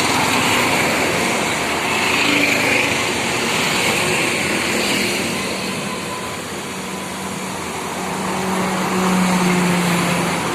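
Road traffic: motor vehicles driving past, with a continuous mix of engine and tyre noise. A low engine drone grows louder in the second half.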